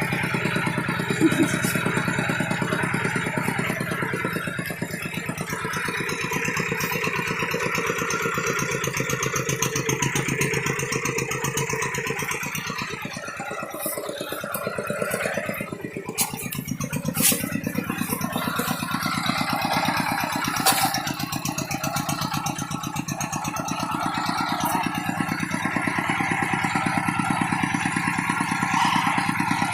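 Tractor engine running steadily with a rattle. Its level drops for a few seconds around the middle, then picks up again, with a few sharp clicks or knocks in the second half.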